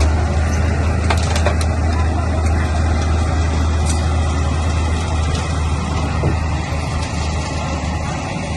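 Crawler bulldozer's diesel engine running with a steady deep drone under a clatter of machine noise, with a few sharp knocks in the first second and a half. The engine eases slightly near the end.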